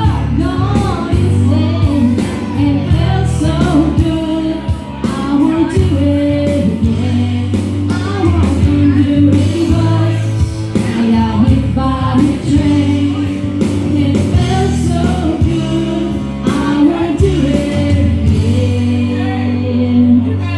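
Pop karaoke backing track with a steady beat and bass, and a voice singing along over it.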